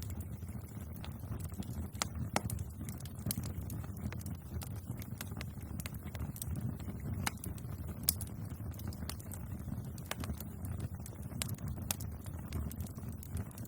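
Bonfire crackling: irregular sharp pops and snaps of burning wood over a steady low rumble of the flames, with a few louder snaps about two seconds in and again around eight seconds in.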